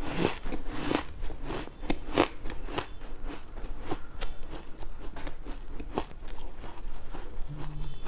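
A person biting into and crunching ice in the mouth: a run of irregular, crisp crunches and crackles, with a few sharper bites standing out.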